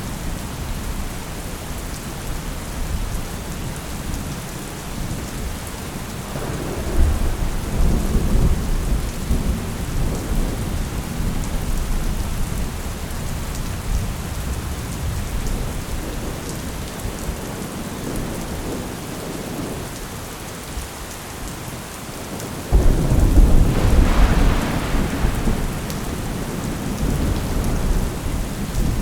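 Thunderstorm: steady rain with two rolls of thunder, the first swelling about seven seconds in, the second breaking suddenly and louder about three-quarters of the way through, then fading.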